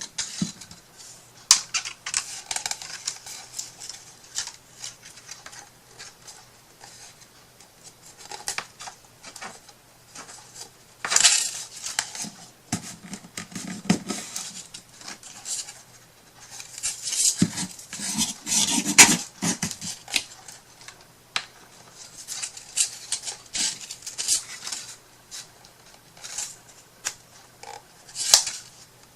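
Small tabletop handling sounds of craft work: scattered light clicks and taps with several short scraping rubs as small tools and materials are worked by hand.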